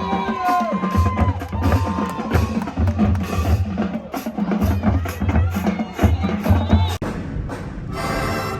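High school marching band playing, its drumline of bass drums and snares beating a steady rhythm under held horn notes. About eight seconds in, the sound switches to a different, smoother music track.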